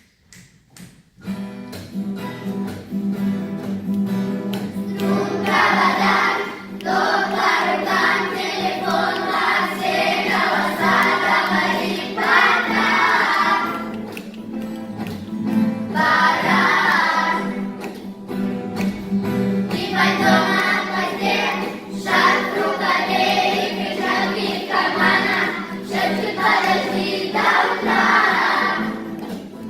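Vocal ensemble rehearsing a song, with a solo female voice singing the lead over a steady accompaniment. The accompaniment starts about a second in and the singing comes in about five seconds in, in phrases with short breaths between them.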